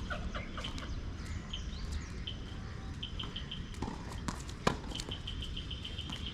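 A bird chirping in repeated short, high notes, with a rapid string of them near the end. A few sharp knocks of a tennis ball being struck or bouncing come in the middle, the loudest about two-thirds of the way through.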